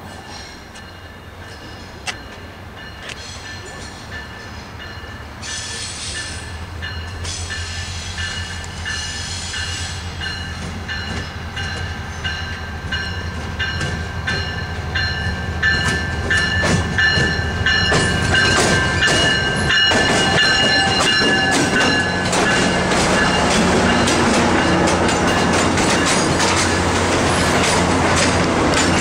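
MARC commuter train pulling into the station: its diesel locomotive's low rumble grows steadily louder as it approaches. From about two-thirds of the way in, the passenger cars pass close by with wheels clacking over rail joints and a steady high wheel squeal as the train slows.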